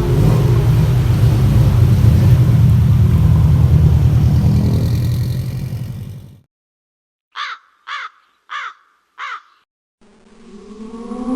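Car engine and exhaust rumbling loudly, then fading away over about six seconds. After a second of silence come four short falling caws like a crow's, and music swells in near the end.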